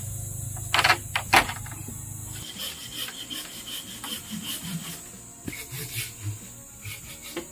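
Bamboo being worked by hand: two sharp knocks about a second in, then scattered lighter knocks and rubbing or scraping on wood.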